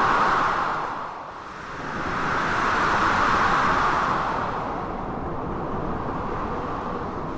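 Storm ambience of blizzard wind with waves behind it: a rushing hiss that swells in gusts, easing about a second in and building again for a couple of seconds before settling.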